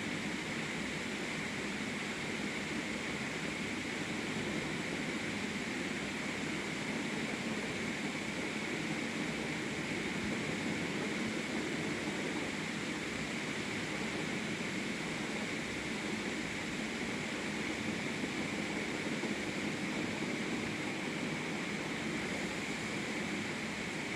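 Isuzu truck running: a steady rushing noise with a low hum, unchanging in level.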